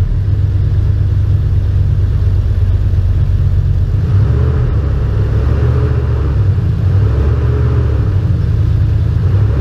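Dodge Ram 1500 engine idling after a cold start, a steady low rumble. It is burning oil and smoking, which the owner takes for a failed intake plenum gasket.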